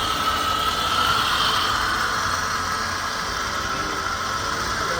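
Lexus RX 350 running with a steady hum and a steady high whine over it: the unwanted noise the car was brought in with.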